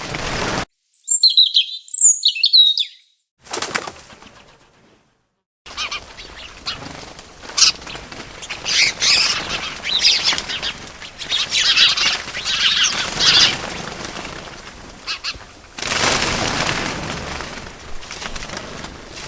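Small birds chirping in short, quick, sweeping high calls, mixed with rustling bursts of wing flapping; there is a louder flurry of flapping near the end.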